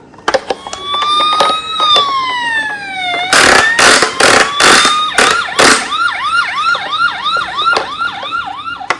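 Electronic toy emergency-vehicle siren: a slow wail that rises and then falls, then switches to a fast yelp of about three sweeps a second. A run of loud sharp clattering knocks cuts in around the middle.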